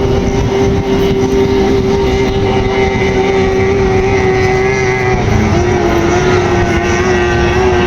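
Racing powerboat engine running steadily during its pre-race warm-up, its pitch dipping slightly a little over halfway through.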